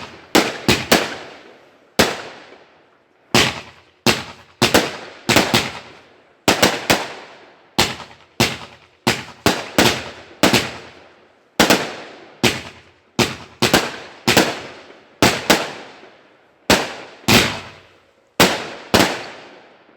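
A long run of loud firework bangs, about thirty of them, irregularly spaced at roughly one or two a second, each sharp crack trailing off in an echo.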